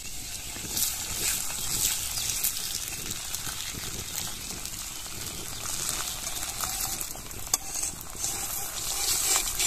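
A thin paratha sizzling in hot oil on a flat tawa, a steady hiss broken by scattered small crackles and pops.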